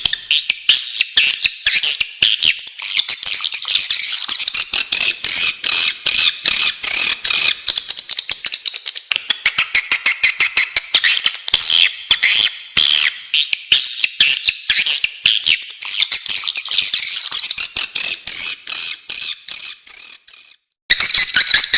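Swiftlet calls: a dense, rapid twittering chatter, the kind of call played to lure swiftlets into nesting houses. Near the end it fades away, stops for a moment, then starts again loudly.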